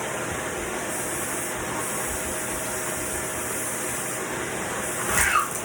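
Vacuum cleaner running steadily, an even rushing noise with a faint steady hum. About five seconds in, a short high sound slides down in pitch over it.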